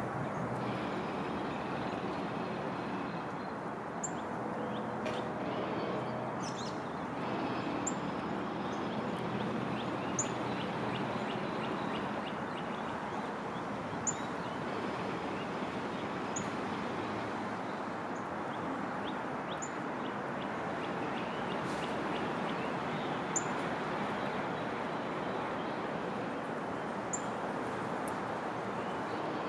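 Small birds giving short, high chirps every few seconds over a steady rushing outdoor background noise.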